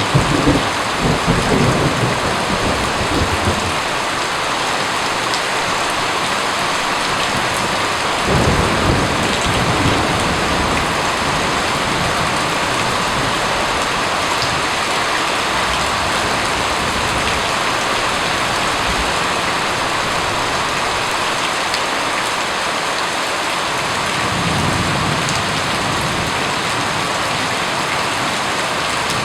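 Steady rain, with thunder rumbling low three times: at the start, about eight seconds in, and more softly near the end.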